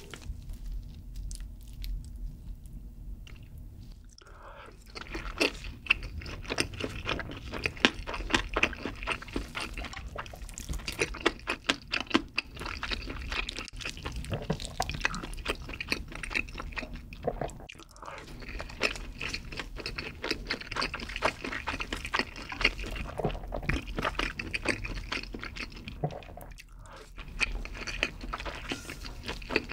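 Close-miked eating sounds: wet chewing and smacking of soft, saucy food such as creamy carbonara tteokbokki, a dense run of small mouth clicks. Quieter for the first four seconds.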